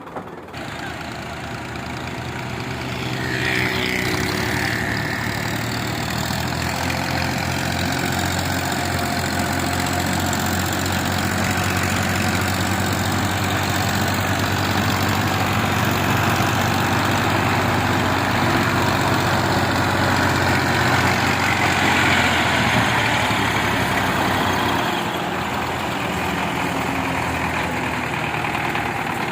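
Belarus 510 tractor's diesel engine running steadily, getting louder a few seconds in and easing off a little near the end.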